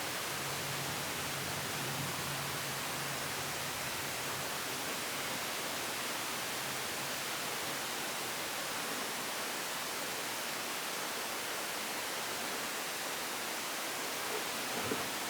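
Steady, even hiss that does not change, with a faint low hum in the first few seconds and a short knock right at the end.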